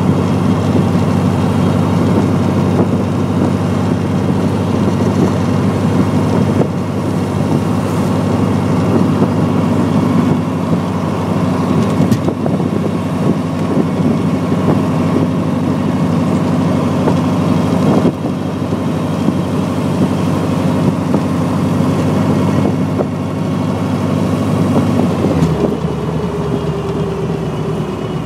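1922 T-bucket hot rod's engine running steadily as the open car drives along, with wind noise over the open cockpit. About 25 seconds in, the engine note drops and falls away as the car slows.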